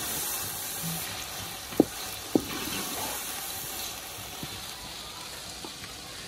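Chicken pieces and onions sizzling steadily in hot oil in an aluminium pot as they are stirred with a wooden spoon while being lightly browned. Two sharp knocks of the spoon against the pot come about two seconds in, half a second apart.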